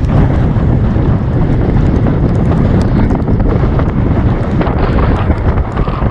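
Wind buffeting the microphone of a camera carried on a moving bicycle: a loud, steady low rumble with no letup.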